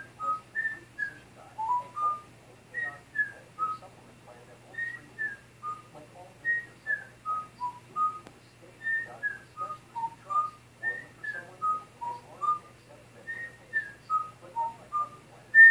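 African grey parrot whistling a short tune of clear notes that step down from high to lower, repeated over and over about every two seconds.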